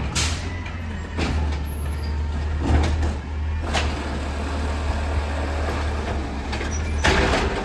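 Garbage truck's diesel engine running steadily, with several short bursts of noise over it; the longest burst comes near the end.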